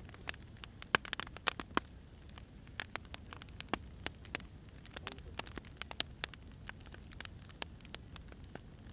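Firewood burning: irregular sharp crackles and pops, several a second, over a low steady rumble.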